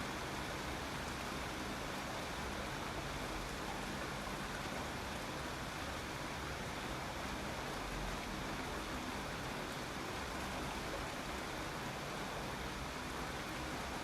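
Steady rain, a continuous even hiss with no distinct drops or changes.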